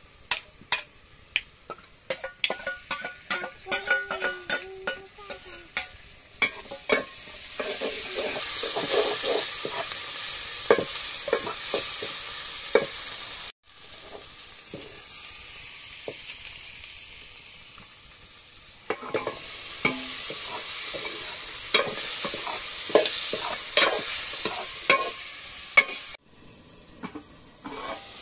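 Onions and spice paste frying and sizzling in a metal pot while a steel ladle stirs them, clinking and scraping against the pot with many sharp taps. The sizzle swells a few seconds in and cuts off suddenly twice.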